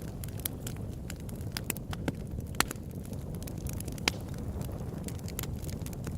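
Open-air wood campfire burning steadily, with a low rumble under frequent sharp crackles and pops; two louder pops come about two and a half and four seconds in.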